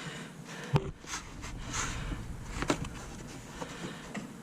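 Sharp clicks and knocks of hands and tools working on plastic fog-light trim clips. The loudest click comes just under a second in and a second one near three seconds, with lighter handling noise between.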